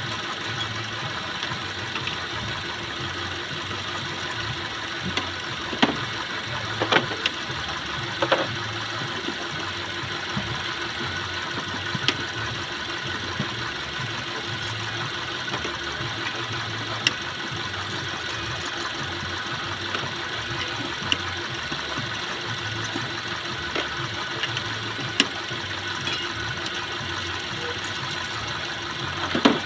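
Car engine idling with an uneven low beat, the stumbling idle of an engine with a misfire. A few sharp clicks or taps stand out over it now and then, most around a quarter of the way in and just before the end.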